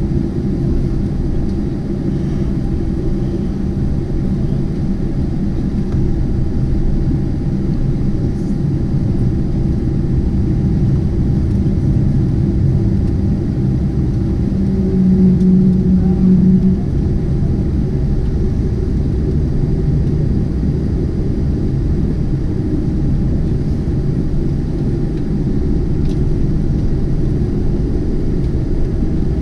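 Steady low rumble inside the cabin of a Boeing 747-8 after landing, with a hum from the engines and air conditioning and a brief louder hum about halfway through.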